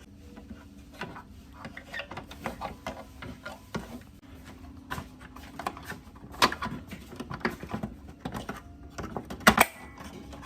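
Irregular clicks and knocks of small parts and tools being handled on a workbench, over a faint steady low hum, with the sharpest knock near the end.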